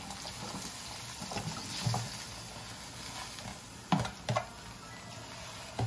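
Shimeji mushroom stir-fry sizzling steadily in the pan as it is stirred, with two sharp knocks in quick succession about four seconds in.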